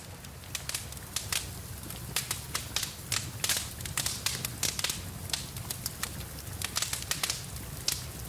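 Wood fire in a fireplace crackling, with frequent irregular sharp pops, over a steady hiss of rain.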